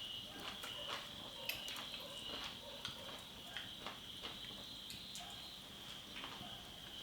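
Insects chirring steadily at a high pitch, with scattered light clicks and taps over it.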